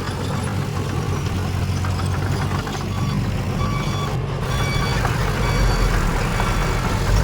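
Heavy diesel earthmoving machinery running steadily, with short high-pitched tones heard now and then over the engine.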